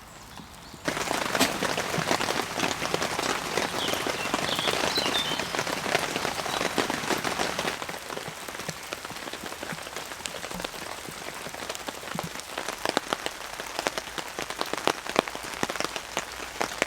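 Heavy rain pattering on a tent, a dense hiss of fine drop ticks. It starts suddenly about a second in, is heaviest over the next several seconds, then thins so that single drops tick out more clearly.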